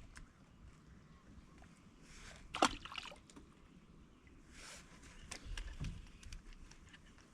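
Water sloshing and splashing against a kayak, in a few soft bursts, with some light knocks and clicks on the hull and gear.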